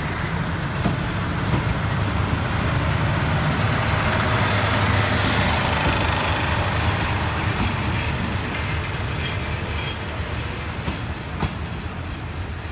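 Steel wheels of State Railway of Thailand passenger coaches rolling past on the rails, a steady rumble, with a few sharp clicks near the end. The rumble eases as the last coach draws away.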